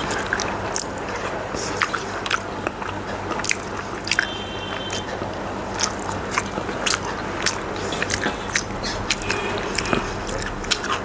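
Close-miked chewing and wet mouth clicks of a person eating rice with the hand, irregular and continuous. Fingers scrape rice together on a metal plate.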